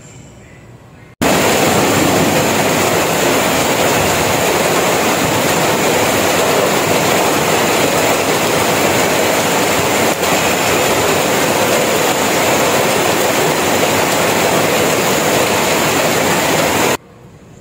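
Heavy rain falling steadily, a dense even hiss. It starts abruptly about a second in and stops abruptly just before the end.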